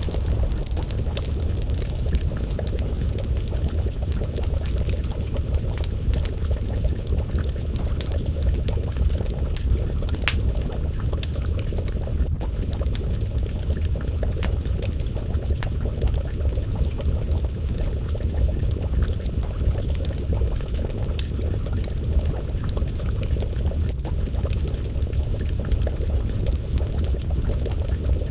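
Wood fire crackling with scattered sharp pops over a steady low rumble, and a pot of stew bubbling as it simmers over the flames.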